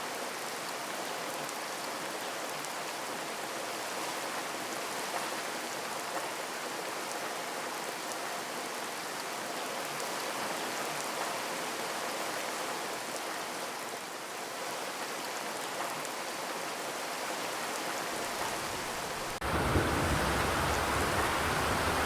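Steady rain drumming on a zinc sheet-metal roof, an even patter of drops. About nineteen seconds in it suddenly turns louder and deeper, with a low rumble added.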